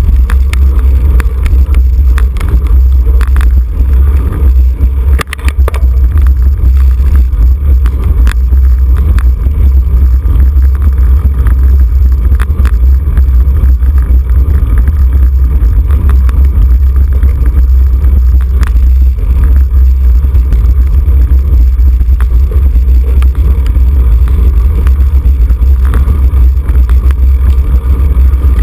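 Heavy, steady wind rumble buffeting the microphone of a camera riding along in a bicycle road race, with a few sharp clicks now and then.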